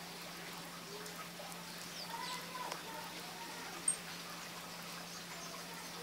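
Scattered faint chirps and short calls of small birds at a seed feeder, with one sharp high chirp about four seconds in, over a steady low hum.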